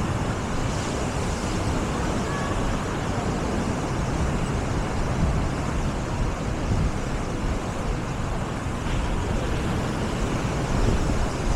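Steady seaside ambience: a continuous wash of surf, with wind rumbling on the microphone.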